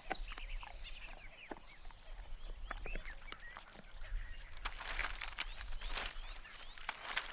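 Scavengers squabbling over scraps at a carcass: a rapid scatter of short, high, falling squeals and chirps with scuffling, thickest in the second half.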